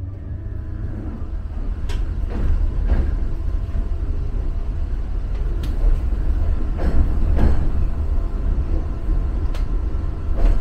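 Rumble of a DART 8100 Class electric multiple unit heard from on board as it moves slowly along a station platform, with scattered clicks and knocks from the running gear at irregular intervals.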